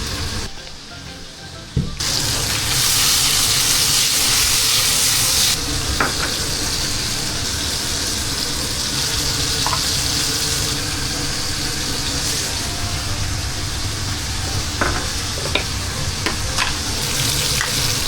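Food sizzling as it fries in a small flat pan, with occasional light clicks of a utensil against the pan. The sizzle starts about two seconds in, after a short quieter moment, and is loudest for the next few seconds before settling to a steady level.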